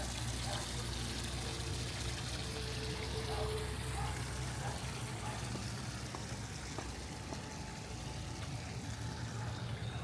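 Steady rush of water running in an infinity pool.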